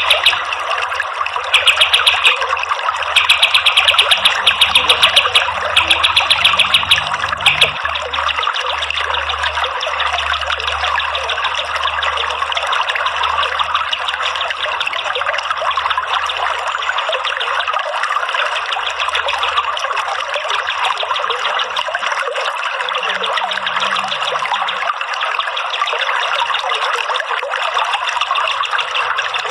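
Water trickling steadily all through. During roughly the first seven seconds, a songbird's rapid-fire high trill comes in several short runs and then stops.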